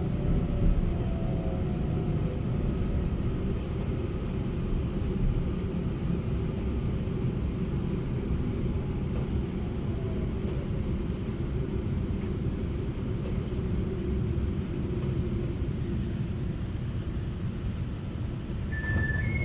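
Taiwan Railway EMU900 electric multiple unit running at speed, a steady rumble of wheels and running gear heard from on board, with a faint whine falling in pitch near the start. Just before the end an alternating two-tone chime starts up.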